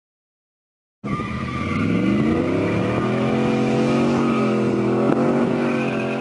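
8.1L Vortec V8 truck engine, breathing through a Duramax muffler, revving up and then held at high revs. It starts abruptly about a second in, its pitch climbs for a second or so, then holds steady with a slight waver.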